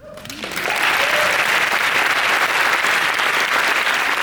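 Audience applauding, building up over the first half second and then holding steady, with some cheering.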